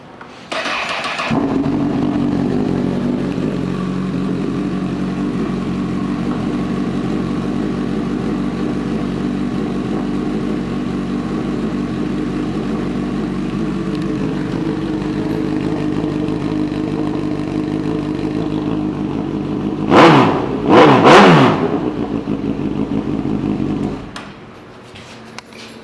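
A 2015 Honda CB1000R's inline-four engine, breathing through an aftermarket IXIL exhaust, cranks and catches under a second in, then idles steadily. Near the end it is blipped twice in quick succession, rising and falling in pitch each time, and shortly after it is shut off.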